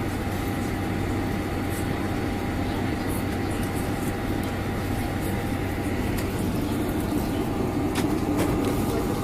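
Steady cabin noise inside a Boeing 747-400 airliner: an even rush of air with a constant low hum, and a few faint clicks near the end.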